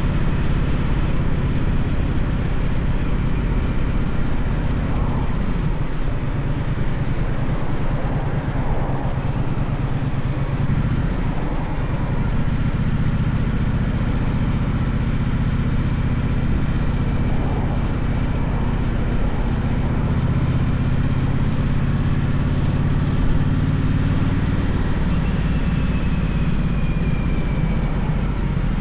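Gaokin GK1200 motorcycle engine running steadily while being ridden, its note shifting a little in pitch now and then.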